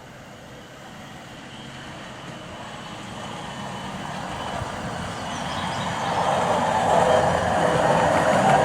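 Hi-rail maintenance-of-way truck approaching along the rails, its running noise growing steadily louder.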